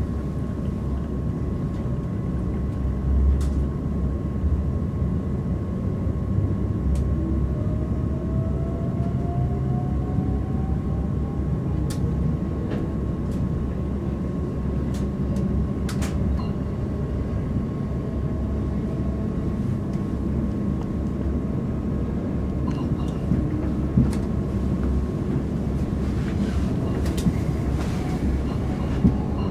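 Inside a Class 387/1 Electrostar electric multiple unit running along the line: steady rumble of wheels on rail with a thin steady whine. A fainter whine rises in pitch over several seconds in the first half, and there are scattered light clicks.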